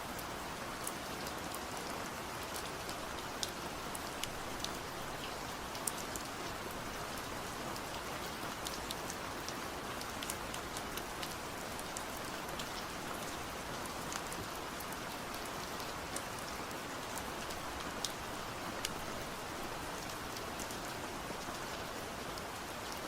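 Steady rain falling, an even hiss with scattered sharp drops ticking on a hard surface.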